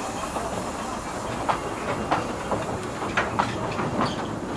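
Narrow-gauge passenger train moving off, heard from on board: a steady rumble of the carriages running, with a handful of sharp, irregularly spaced clicks of wheels over rail joints.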